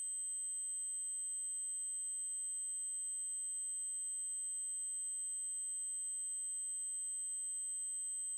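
Continuous synthesized 8192 Hz triangle-wave tone: one very high, steady pitch held unchanged.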